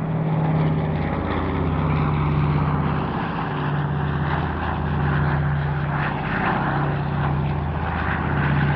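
PBY-5A Catalina flying boat's twin Pratt & Whitney R-1830 Twin Wasp radial engines droning steadily in a flypast, the low note wavering slowly in pitch.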